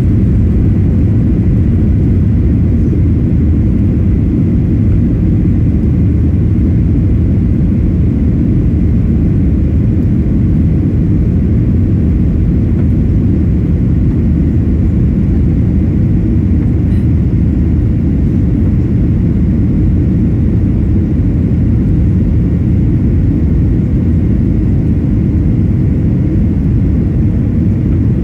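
Steady low rumble of a jet airliner's engines and rushing air heard inside the passenger cabin, with a faint steady whine running through it.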